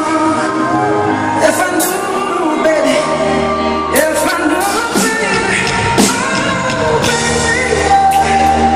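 Live pop band performing, with held keyboard-like chords under a sung melody and occasional sharp percussive hits.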